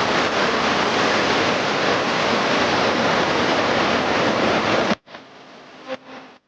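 Loud, steady rush of floodwater. About five seconds in it cuts off abruptly, and a much quieter clip follows.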